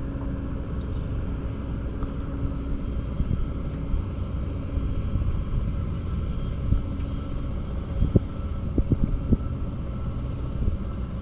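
Small boat's motor running steadily with a low hum, with a few light knocks about two thirds of the way through.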